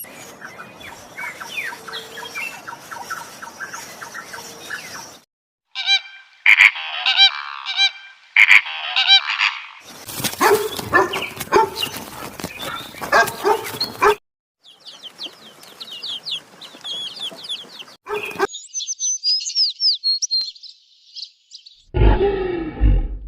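A run of short, abruptly cut clips of birds calling, honking and clucking fowl-like calls among them, with high chirping in the later part. Near the end a loud, deep animal growl begins.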